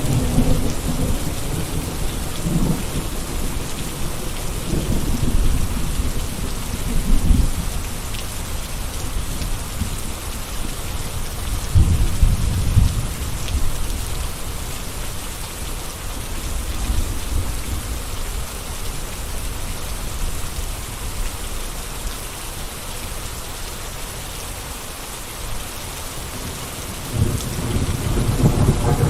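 Steady rain, an even hiss of falling drops, under a deep low rumble that swells and fades three times: near the start, about twelve seconds in, and near the end.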